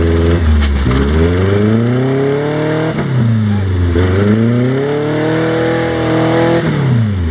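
Rock crawler's engine revving hard and easing off twice in a row, the pitch climbing over a couple of seconds, then dropping away, then climbing again. It is working under load up a rock ledge.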